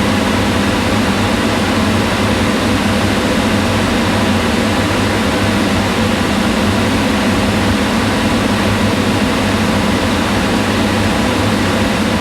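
Kitchen range hood fan running steadily: an even rush of air over a low hum.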